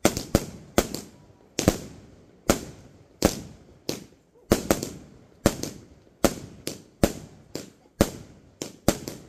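A multi-shot aerial firework barrage firing in rapid succession: sharp bangs at roughly two a second, each with a short echoing decay.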